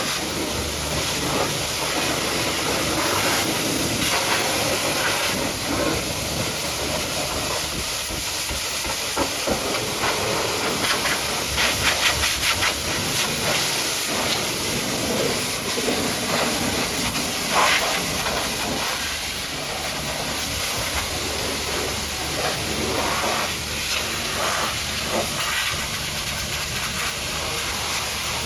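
High-pressure water jet spraying against a truck, a steady hiss with uneven surges of splashing, over a low steady hum.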